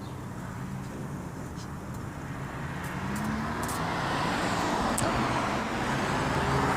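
Road traffic: a motor vehicle's engine running, growing louder from about three seconds in as it approaches, with a few faint clicks.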